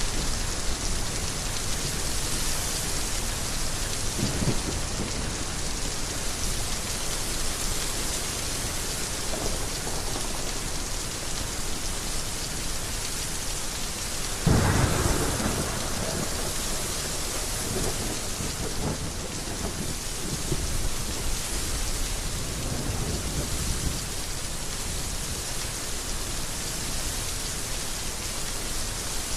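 Heavy rain falling steadily, with rumbles of thunder; the loudest roll comes about halfway through, with fainter ones before and after.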